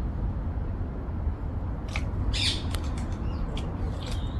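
A single short, harsh bird squawk about halfway through, over a steady low rumble, with a few faint clicks.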